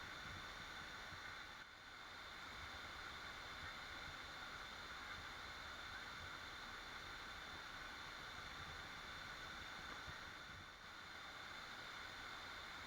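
Waterfall rushing, a faint, steady hiss of falling water that dips briefly twice.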